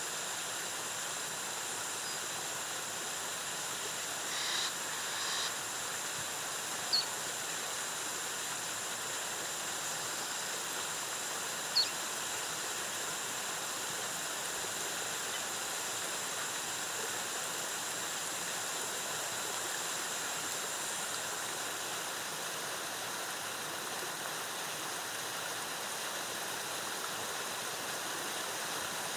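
Waterfall cascading in a steady rush. A few brief high chirps sound over it, and a faint steady high whine stops about three quarters of the way through.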